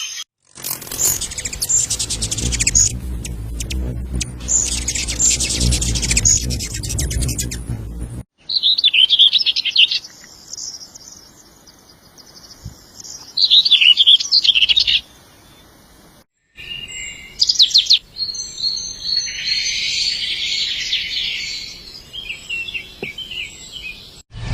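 Birds chirping and singing in three separate recordings spliced one after another, with abrupt cuts between them. The first recording has a steady low rumble beneath the calls.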